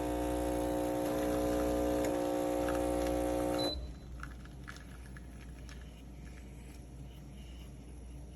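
Espresso machine's 20-bar pump running with a steady hum as it pushes water through, cutting off abruptly just under four seconds in. Afterwards there is only a faint background with a few light ticks.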